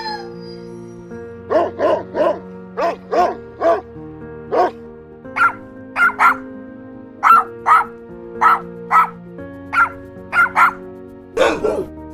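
Dogs barking and yipping in a long series of short single calls, with a quicker cluster near the end, over background music of held chords.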